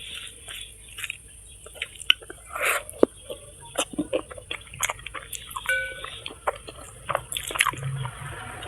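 Close-miked eating sounds: irregular wet smacks, clicks and crunches of someone chewing food, with a brief ringing note about six seconds in.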